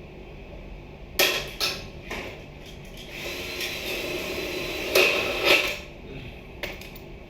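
Work with hand tools: three sharp knocks between one and two seconds in, then a rough scraping stretch with two louder knocks near its end.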